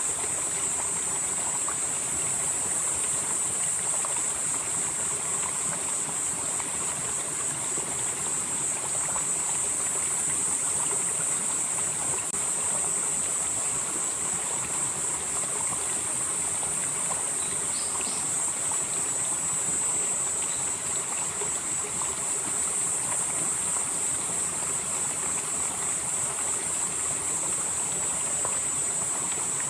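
Steady rush of a valley stream flowing, with insects chirring in a loud, continuous high band over it; a higher insect note comes in and drops out a few times.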